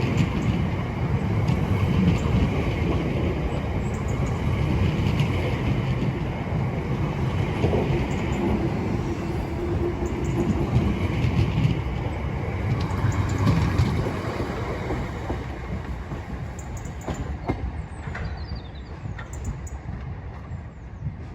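Class 455 electric train running on the rails with a heavy steady rumble that dies away about two-thirds of the way through. A few faint clicks and short squeaks follow near the end.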